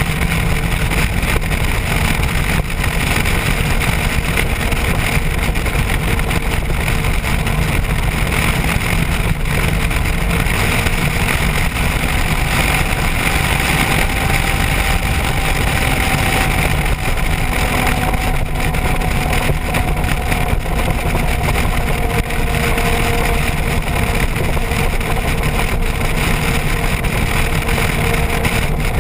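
Motorcycle ridden at a steady cruising speed: the engine runs evenly under a heavy rush of wind noise, with its note drifting slightly lower over the middle of the stretch.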